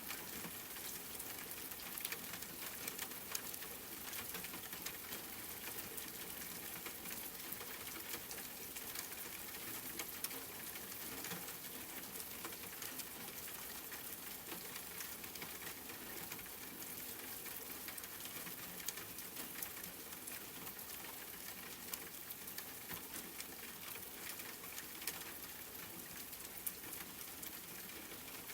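Steady rain pattering, with many small drop ticks over an even hiss.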